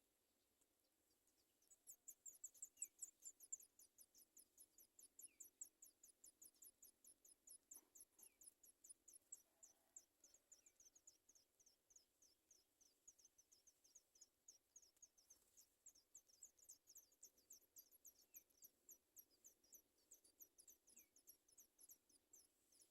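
Sooty chat nestlings begging for food: a faint, long run of thin, very high squeaks, each falling in pitch, several a second, starting about two seconds in.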